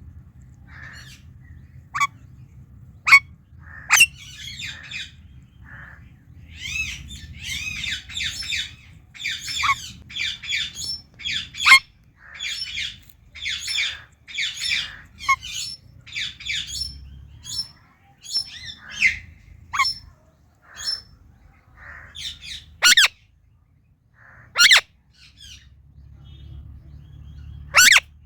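Indian ringneck parakeet calling: a run of short chattering chirps and squawks through the middle, with a few single sharp, loud screeches near the start and near the end.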